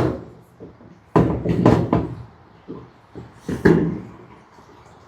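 A few short knocks and scuffs of work handling, in a cluster about a second in and a single one near the middle, typical of metal roof panels being moved and wiped.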